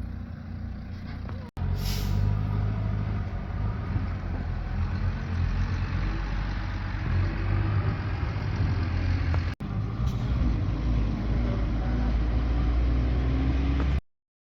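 A motor vehicle's engine running steadily, heard across three edited segments, with a short hiss just after the first cut. The sound stops abruptly near the end.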